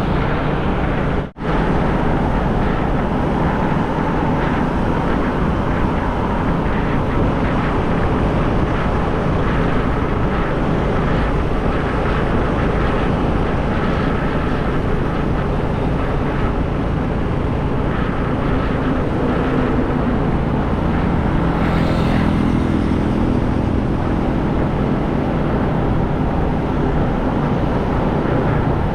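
Motorcycle riding steadily at highway speed: heavy wind rush on the microphone over the running engine. The sound cuts out for an instant about a second in.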